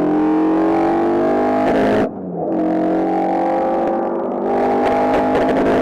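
Alfa Romeo 33 race car's flat-four boxer engine under hard acceleration, its pitch climbing steadily. It breaks off briefly about two seconds in and dips again around four seconds in, picking up lower and rising again each time, as the driver changes up through the gears.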